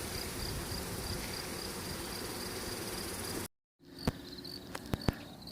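A cricket chirping in rapid, high-pitched pulses over a steady hum of honeybees around a freshly hived swarm. The sound cuts off suddenly a little over three seconds in; after a brief silence the cricket chirps resume over a quieter background, with a few sharp clicks.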